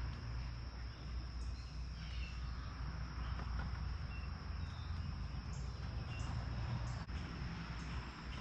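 Insects trilling in one steady, continuous high tone, with a few short, faint bird chirps over it and a low rumble underneath.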